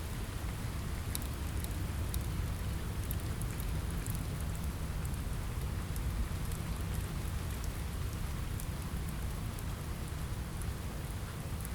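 Steady rain on a window over a deep, even rumble, with scattered sharp crackles from a wood fire.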